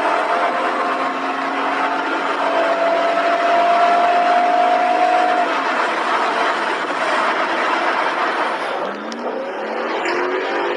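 Mercedes-Benz W124 E320's 3.2-litre engine pulling at full throttle at high speed, heard from inside the cabin: a steady, slowly climbing engine note over heavy wind and road noise. About nine seconds in, a W124 500E's 5-litre V8 takes over, its note rising steeply as it accelerates hard from low speed.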